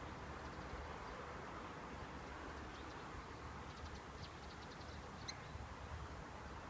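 Small bird calling: a quick run of high ticks about four seconds in, then one short high chirp a second later, over a steady low outdoor background noise.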